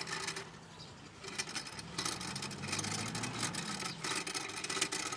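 A small engine running steadily at a low pitch, coming up about two seconds in, with scattered light clicks over a hiss.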